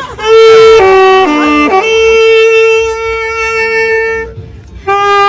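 Music from a solo wind instrument playing a slow melody: a few notes stepping downward, then one long held note, a brief pause, and a new phrase beginning near the end.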